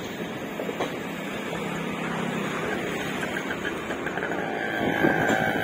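Indian Railways LHB passenger coaches rolling slowly past on the track, a steady rumble of wheels on rail with occasional clicks and a louder knock about five seconds in.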